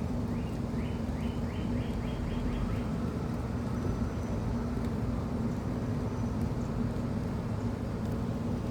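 A small bird singing a run of about eight quick rising notes in the first three seconds, over a steady low rumble of background noise.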